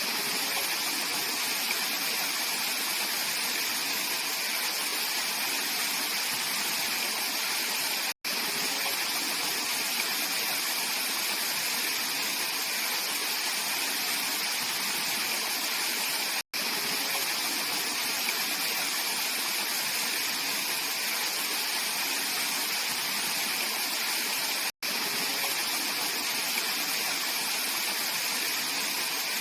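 Mountain stream water rushing steadily over rocks, an even hiss with no change in strength, broken by three split-second dropouts about eight seconds apart.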